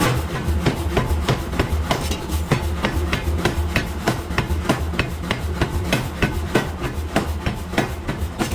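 Rapid, regular hammer strikes on steel, about four a second, over a low steady rumble.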